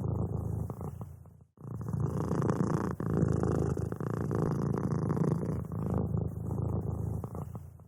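Domestic cat purring steadily in a continuous rumbling buzz. About one and a half seconds in, the purr breaks off for a moment before resuming.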